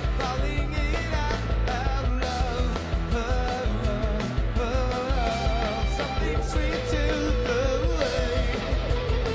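Live rock band playing at full volume: a steady drum beat, distorted electric guitars and bass, with a sung male lead vocal over them.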